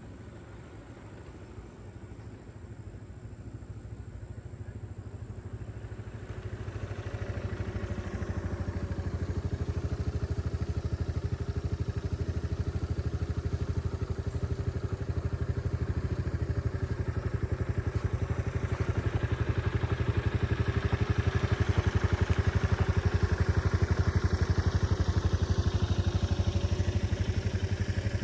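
2006 Yamaha Majesty 400 scooter's single-cylinder engine running steadily, growing louder over the first several seconds, then holding at a constant level.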